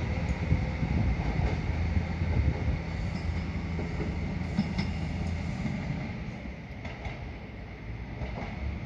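A train running along the tracks with a steady low rumble and some faint wheel clicks, growing fainter from about three seconds in as it moves away.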